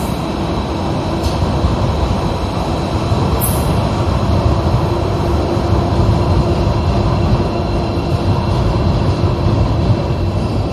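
Madrid Metro train running through the station: a loud, steady rumble of wheels on track with a faint steady tone, and a brief high hiss about three and a half seconds in.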